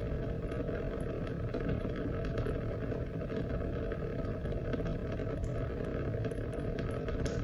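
Steady rain falling, a constant dense hiss with many individual drops ticking through it.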